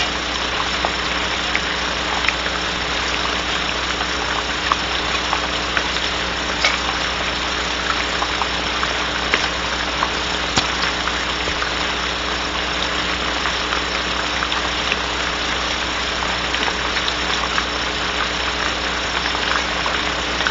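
Steady rain on the owl nest box, heard through the nest-cam microphone as an even hiss with scattered small drop clicks, over a constant electrical hum.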